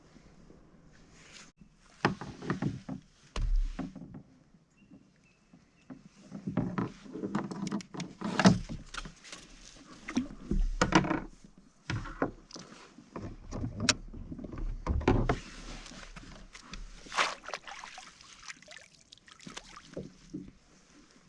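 Kayak on the water with irregular splashes and knocks against the hull, some louder than others.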